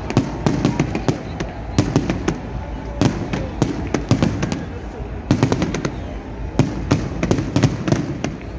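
Fireworks going off in quick, irregular succession: many sharp bangs and crackles, some bunched in rapid clusters, over a low rumble.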